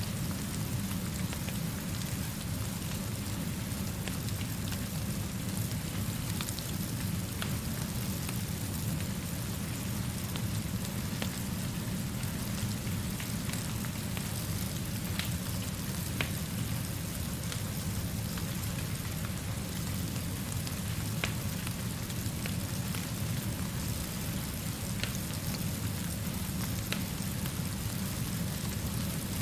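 Steady rain falling over a constant low rumble, with scattered sharp crackles from a wood fire.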